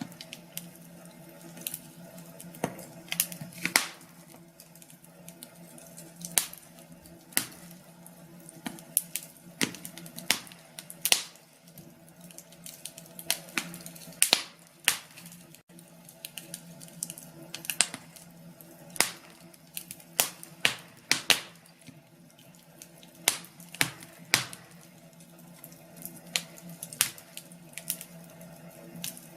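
Wood fire crackling in a fireplace: irregular sharp pops and snaps, several in quick clusters, over a steady low hum.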